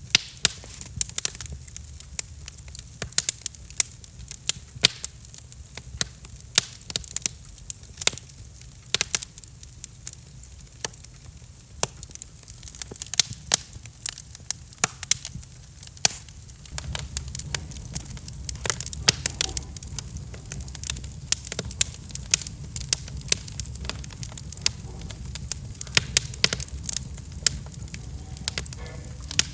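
Wood fire in a fireplace crackling, with frequent irregular sharp pops over a low steady rumble that gets louder a little past halfway.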